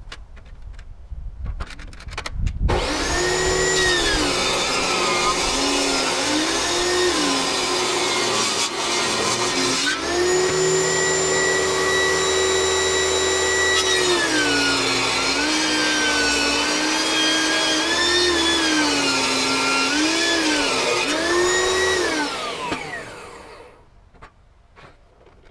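Table saw with a ripping blade starting about two and a half seconds in and running with a steady whine, its pitch sagging again and again as the blade bogs down ripping very hard American beech, then switched off near the end and winding down.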